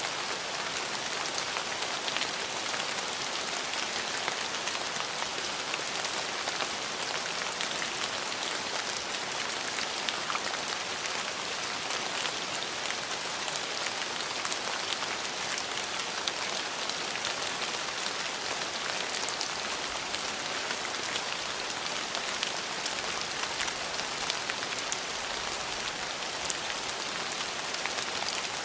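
Steady rain falling on hard surfaces, an even hiss made of countless small drop patters, with no rise or fall.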